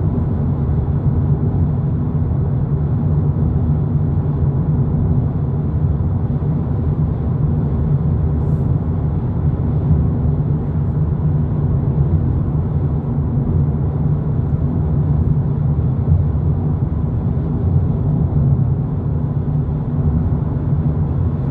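Steady in-cabin drone of a 2022 Volkswagen Polo GTI cruising at about 120 km/h on the highway: tyre and road rumble with engine noise, deep and even, with no revving or gear changes.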